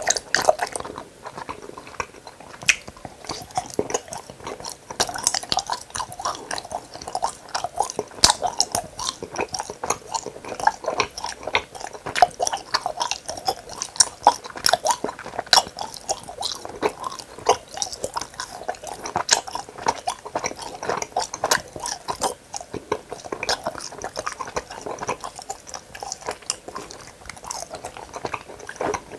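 Gummy hamburger candy being chewed close to the microphone: a continuous run of small, quick mouth clicks.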